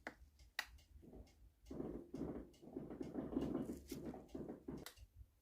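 Small metal clicks, then a few seconds of dense scraping and clicking, as a circlip is worked off a shaft inside an NSU Quickly two-speed moped engine.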